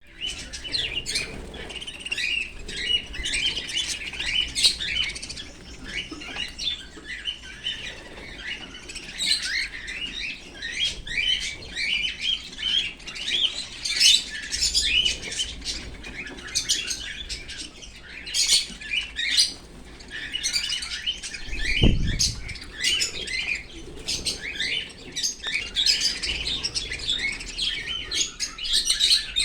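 Pet birds, a cockatiel among them, chirping continuously in quick, short high-pitched calls, with a single low thump about 22 seconds in.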